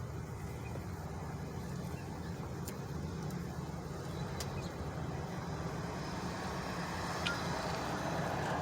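Car engine idling: a steady low hum, with a few faint clicks.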